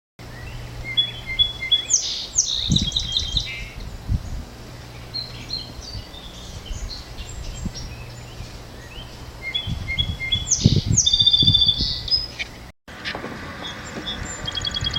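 Song sparrow singing twice: each song opens with a few clear introductory notes and runs into a fast, complex warbling trill. Low thumps and a faint steady hum lie under the song, and near the end the recording cuts to fainter, different birdsong.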